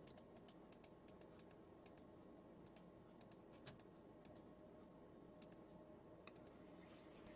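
Faint computer keyboard key clicks over near-silent room tone: a quick run of light taps in the first few seconds, then a few scattered ones.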